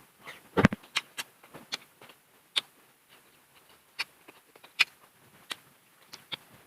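Close-up eating sounds from a seafood meal: scattered sharp clicks, crackles and wet mouth noises of chewing and handling shellfish, with one louder crunch under a second in.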